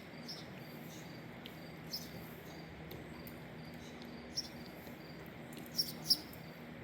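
Crickets chirping steadily, about two short high chirps a second, over a faint steady low hum, with a few louder sharp chirps or clicks near the end.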